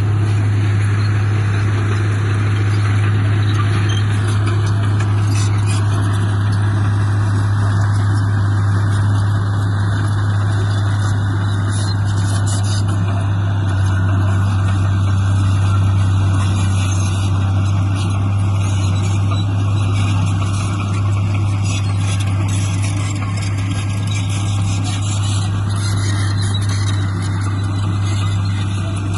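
Heavy diesel earthmoving machinery running steadily under work, with a strong, even low engine hum and a rough mechanical noise above it.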